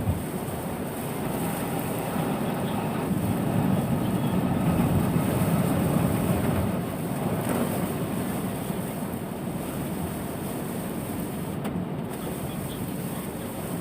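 Road vehicle noise on a rain-wet road: a steady rush of tyres and engines that swells a little mid-way and eases after.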